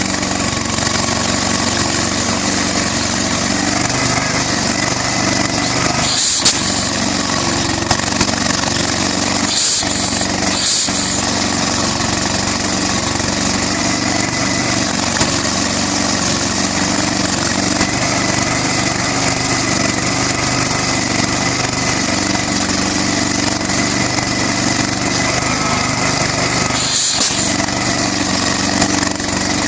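Southpenn 20 HP hit-and-miss flywheel engine running on propane, a steady mechanical running sound with a few brief, sharper sounds standing out along the way.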